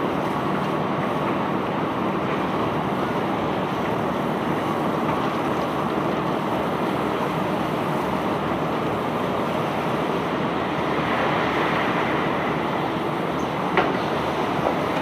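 Self-unloading barge's unloading machinery running with a steady, even noise, with one sharp knock near the end.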